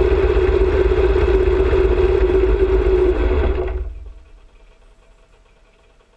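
Harley-Davidson motorcycle riding, its engine nearly buried under loud wind rush buffeting the microphone. About three and a half seconds in the noise drops away quickly, leaving only a faint engine hum.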